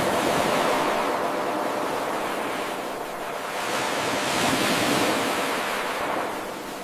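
Ocean waves breaking and washing in a steady rush of surf. The surf swells near the start and again about four to five seconds in, easing in between and fading toward the end.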